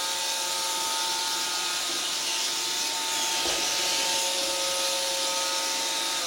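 Roomba robot vacuum running: a steady motor whine over the hiss of its suction and brushes.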